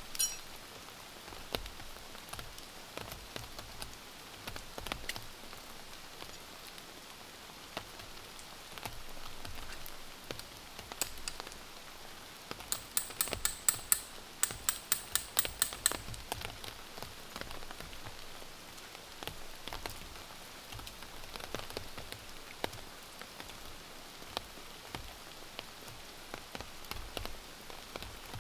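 Steady rain falling, with scattered single drops ticking. Near the middle comes a quick run of sharp clicks, several a second, lasting about three seconds.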